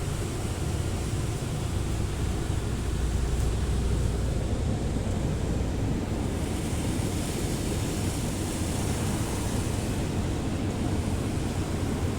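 Automatic car wash machinery at work on the car, heard from inside the cabin: a steady rush of spraying water and equipment, with a deeper rumble a few seconds in and a brighter hiss later.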